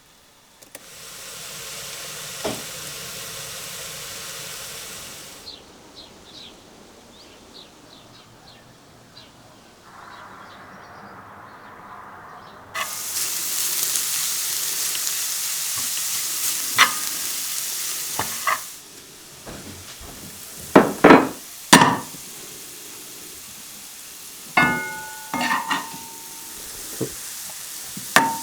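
Food sizzling in a frying pan, heard in separate stretches of steady hiss. In the latter half, sharp knocks and clicks of a utensil working in the pan, with a ringing metal clink about 25 seconds in.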